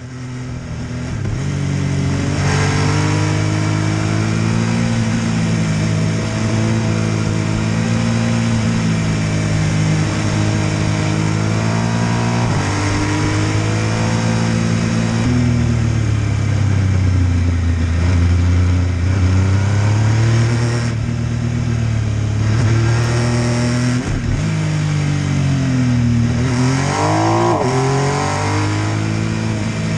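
MV Agusta F3 800's three-cylinder engine under way, its revs climbing and dropping again and again through gear changes and throttle, with a sharp dip and steep rise in revs near the end.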